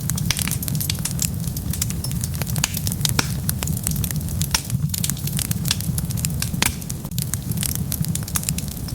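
Wood fire burning, with a steady low rumble of the flames and frequent irregular sharp crackles and pops from the burning wood.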